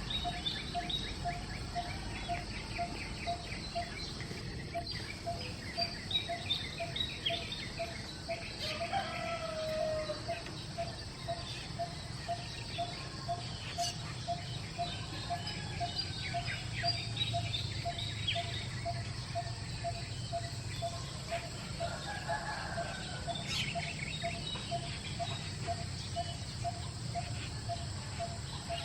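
Asian glossy starlings (galansiyang) chattering with many short, quick chirps, with a steady pulsing note repeating about twice a second underneath. Two lower calls stand out, one about nine seconds in and one about twenty-two seconds in, which may be a rooster crowing.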